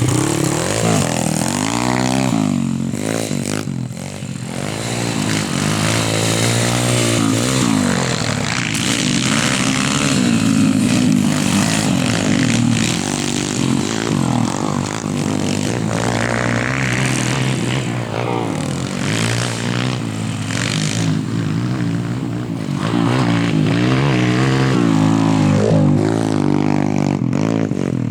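YCF 140 pit bike's single-cylinder four-stroke engine running and revving, its pitch rising and falling again and again as the throttle is worked.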